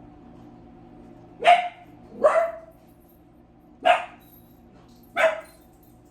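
An adult dog barking four times, short sharp single barks spaced a second or so apart.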